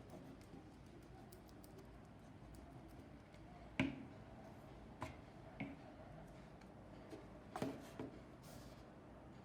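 Quiet handling of craft materials on a table while glue is spread on a paper plate, with about five light, sharp taps and knocks, the loudest about four seconds in.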